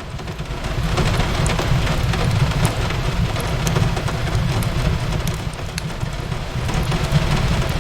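Steady rain on a window mixed with a crackling fireplace: a continuous hiss of rain over a low rumble, with scattered sharp pops and crackles from the fire.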